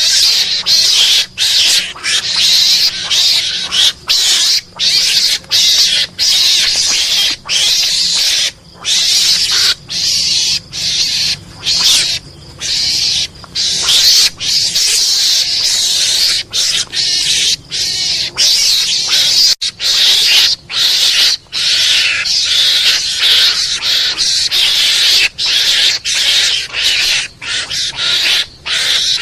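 Lure-call recording of mongoose (garangan) calls: raspy, noisy chattering calls in quick runs, broken by short pauses about every second, used to draw mongooses in.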